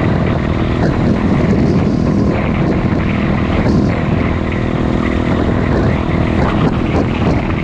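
Pit bike engine running loud and steady at high revs, a continuous engine drone.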